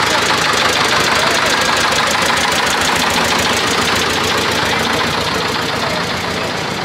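An engine running with a fast, even rhythm, easing off slightly near the end.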